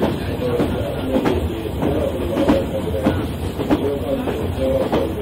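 Inside a JNR old-type passenger coach running along, a steady rumble with the wheels clicking over the rail joints about every 0.6 seconds.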